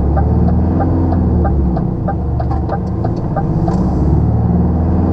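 Inside a rigid HGV lorry's cab: the diesel engine pulling away, its pitch rising and falling as it gets up speed. The turn indicator ticks evenly, about three times a second.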